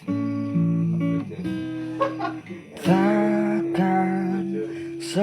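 Acoustic guitar strummed and picked through a slow pop chord progression. A male voice comes in singing a long held note about halfway through.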